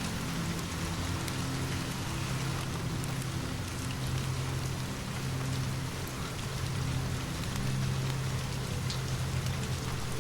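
Steady rain falling, with a low steady rumble underneath and scattered faint ticks.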